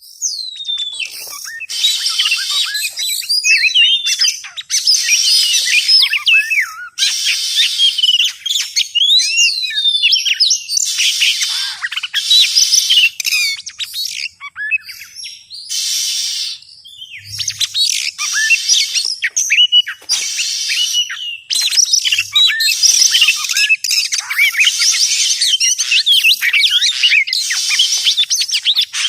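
Oriental magpie-robin (kacer) singing, recorded as a lure call: loud, rapid phrases of whistles and chirps with sweeping rising and falling notes, broken by short pauses.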